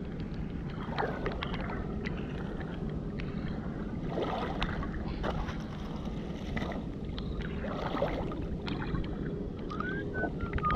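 A steady low rumble under scattered clicks and a few louder crunches of stones and shards being moved over the foreshore. A short wavering high squeak comes near the end.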